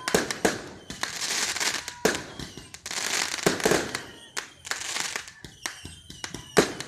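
Fireworks going off: many sharp bangs and pops in quick succession, with several longer bursts of dense crackling hiss.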